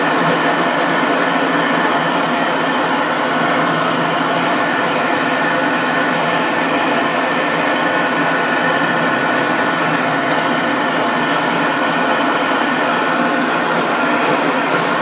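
Dog grooming dryer (blower) running steadily: a constant rushing motor noise with a faint steady whine in it.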